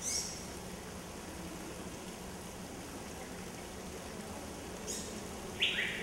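A few short bird chirps over a steady hiss. High chirps fall in pitch at the start, a fainter one comes near five seconds, and a louder, lower falling call comes just before the end.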